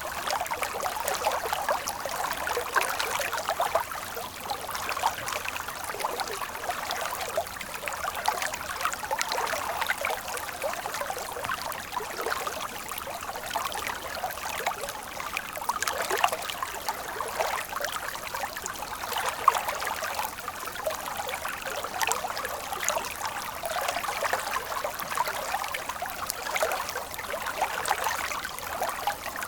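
A stream of water flowing and trickling, a steady babble of many small splashes with no deep rumble.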